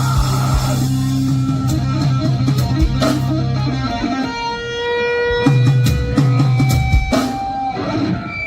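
Live punk rock band playing: drum kit, bass and electric guitars at full volume.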